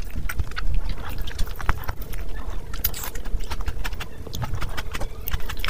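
Close-miked eating: wet chewing and lip-smacking of a mouthful of oily mutton curry and rice, with many irregular sharp mouth clicks.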